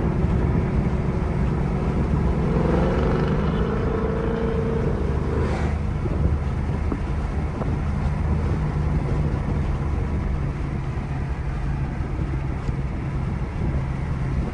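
BMW M5 Competition's twin-turbo V8 running while the car is driven, its note climbing a couple of seconds in and then settling to a steady drone, over road and wind noise.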